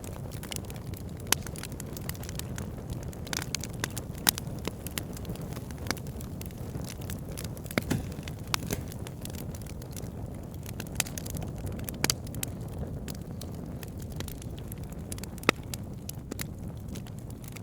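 Burning wood logs crackling, with a steady low rumble of the flames under scattered sharp pops and snaps, a few of them louder.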